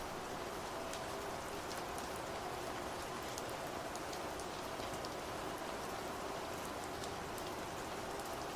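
Steady rainfall, a constant hiss with many small drop ticks.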